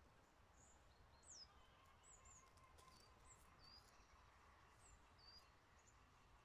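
Near silence with faint bird calls: a scatter of short, high chirps about every half second to second.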